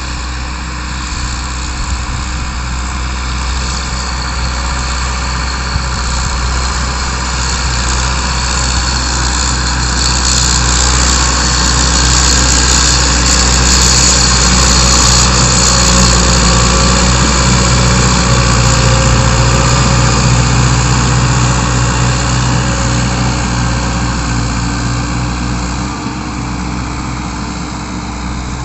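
Ford 7000 tractor's turbocharged four-cylinder diesel engine running steadily while pulling a plough, growing louder toward the middle and easing off near the end.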